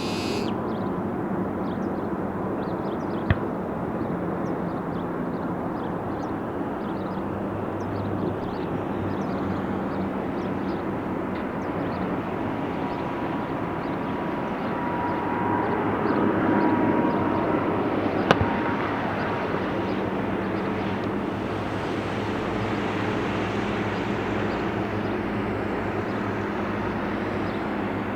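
Aircraft engine noise across an airfield: a steady hum that swells briefly past the middle, broken by two sharp clicks.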